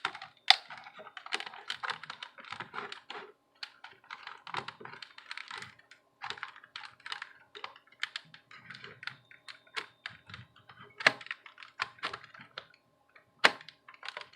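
Irregular clicking and tapping of hands handling a laptop's plastic case while trying to pull out its optical (CD-ROM) drive, with a few sharper knocks about eleven and thirteen seconds in.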